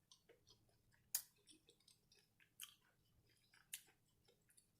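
Close-miked chewing of crisp fried food: soft wet mouth clicks, with three louder crunchy bites about one, two and a half and nearly four seconds in.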